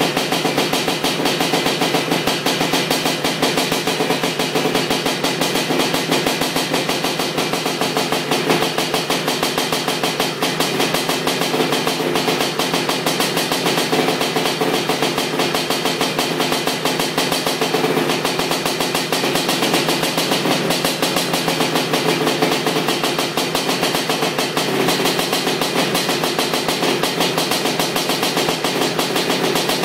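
Honda 250R three-wheeler's ESR 310 two-stroke engine running steadily with a rapid, even firing beat on its first heat cycle after the build.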